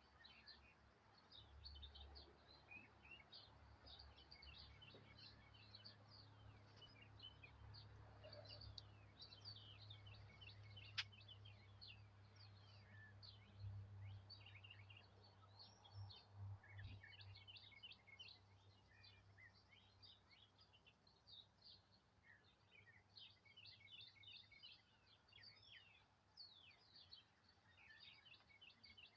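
Faint, busy chorus of small songbirds chirping and twittering in quick high notes, over a low rumble that fades out partway through. A single sharp click sounds about eleven seconds in.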